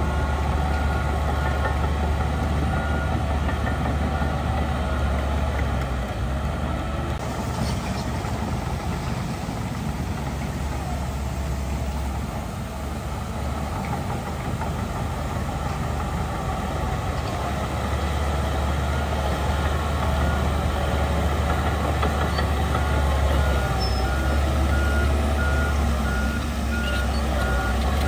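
Heavy diesel earthmoving machinery running, with a steady low engine drone and a repeating high reversing beep in the first several seconds and again near the end.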